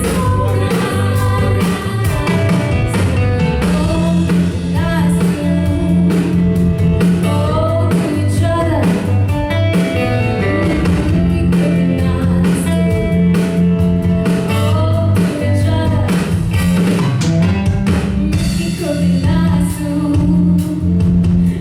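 A song performed live: a singer's voice over guitar accompaniment, with steady low notes underneath.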